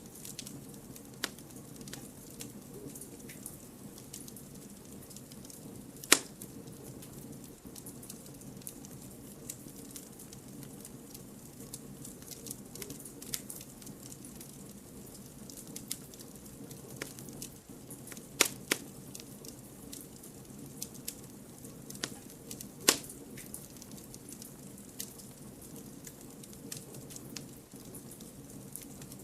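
Campfire of burning firewood logs crackling over a steady low hiss, with many small snaps and a few loud sharp pops, about 6 s in, a pair around 18 s and one about 23 s in.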